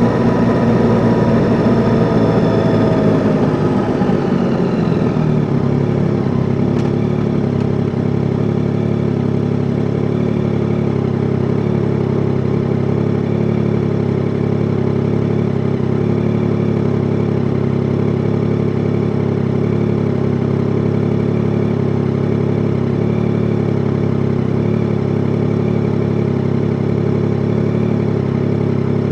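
Yamaha Tracer 9 GT's 890 cc inline three-cylinder engine dropping in pitch as the bike slows over the first five seconds, then running steadily at low revs, idling, for the rest.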